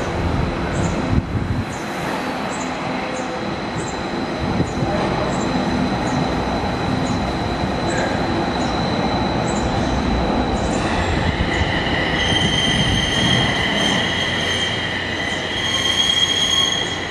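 SAT721-series electric commuter train pulling in along the platform at low speed, its wheels rumbling on the track. From about eleven seconds in, a steady high-pitched squeal joins in as the train slows to a stop.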